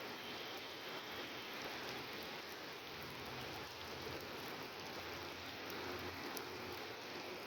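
Steady rain falling, an even continuous hiss with the odd faint tick of a drop.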